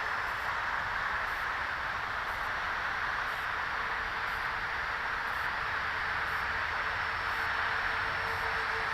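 Electric ducted-fan motors of an RC model Cessna Citation 550 jet running in flight: a steady rushing hiss with a faint, steady whine.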